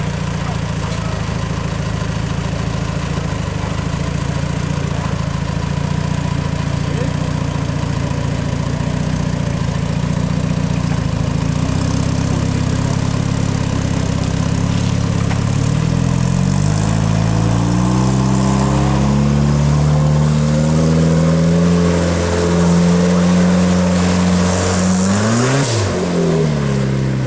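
Truck engine running steadily, then revving up in several steps from about halfway through, holding the higher revs, and dropping quickly back down shortly before the end.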